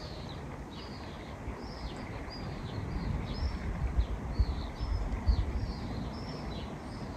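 A bird repeating a short, high chirp about three times a second, over a low, steady rumble.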